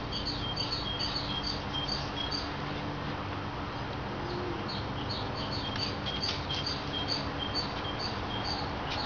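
Small birds chirping over and over, several short high chirps a second with a brief pause near the middle, over a steady low background noise.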